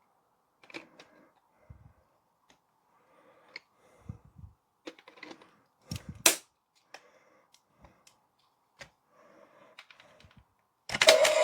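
Hard plastic parts of a Tyrannosaurus Rex toy figure clicking and knocking as the tail piece is handled and pushed into the body, with a few dull thuds; the loudest knock is about six seconds in. A much louder, steady pitched sound starts just at the end.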